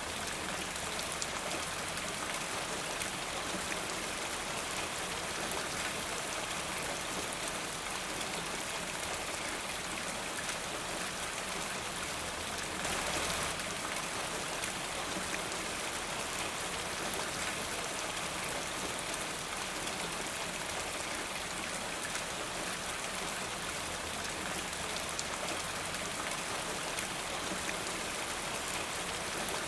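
Steady rain falling, a dense patter of drops on a surface, swelling briefly about thirteen seconds in.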